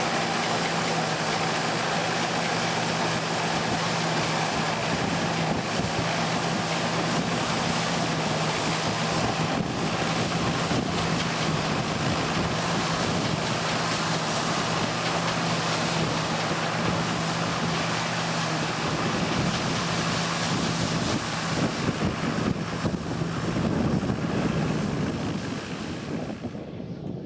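Engine of old farm machinery running with a steady hum, wind noise on the microphone over it, the hum dropping away in the last few seconds.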